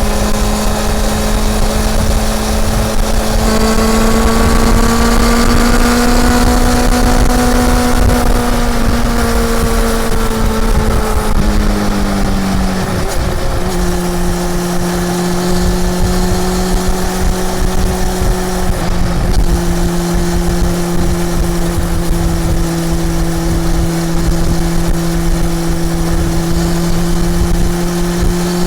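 Honda CB400 Super Four's inline-four engine running under way on the road, its pitch rising gently for several seconds, then dropping sharply about 13 seconds in and holding steady and lower for the rest.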